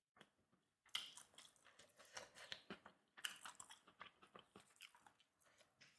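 A person chewing a mouthful of food close to the microphone: a fast, irregular run of small clicks and crackles that starts about a second in and fades near the end.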